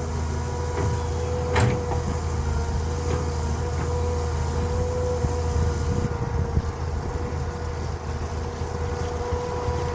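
Small dump truck (land truck) engine running steadily with a low rumble and a steady whine, and a single metallic clank about a second and a half in.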